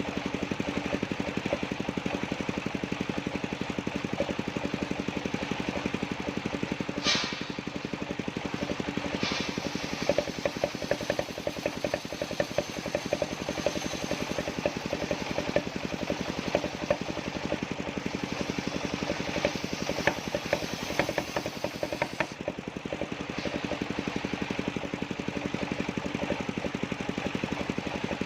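Engine driving a circular-saw sawmill, running steadily with rapid, even pulses. There is a short sharp sound about 7 seconds in, then a rougher stretch with added hiss and irregular knocks from about 10 to 22 seconds in, as the saw works through jackfruit wood.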